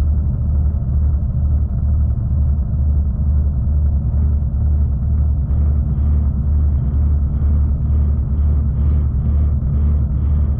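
V/Line passenger train running, a steady low rumble with a regular low pulse about twice a second.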